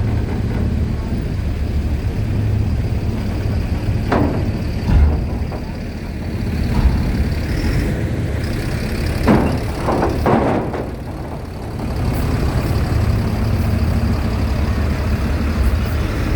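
Heavy vehicles' diesel engines running and idling in a steady low rumble, with a few short sharp sounds around the middle.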